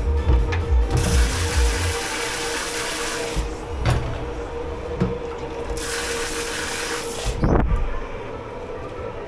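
Water running at a dish-pit sink in two spells of hiss, with a few sharp knocks of dishes against each other, over a steady machine hum.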